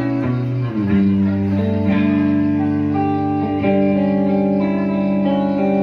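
Live band music: a guitar-led instrumental intro of held chords that change every second or two.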